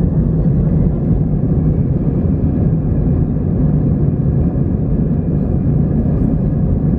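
Steady, loud engine and airflow noise inside the cabin of an Airbus A319-111, its CFM56 turbofans running; a constant deep hum without change.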